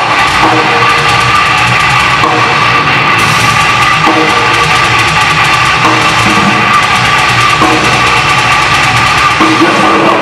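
Live heavy metal band playing an instrumental passage: loud distorted guitars over a fast drum kit.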